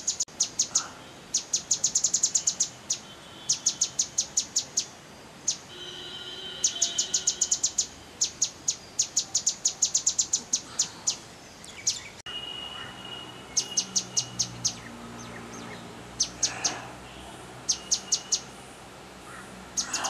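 Grey-headed canary-flycatcher calling: about ten bursts of very high, rapid chip notes, roughly eight a second, each burst lasting one to two seconds with short gaps between.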